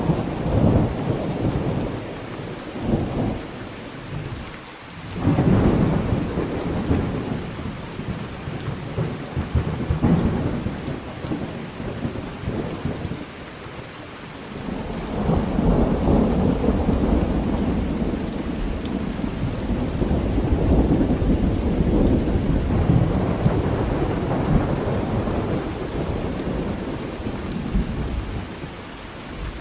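Thunderstorm with steady rain, and rolling thunder rumbles that swell and fade: one right at the start, another about five seconds in, and a long drawn-out roll from about halfway through until near the end.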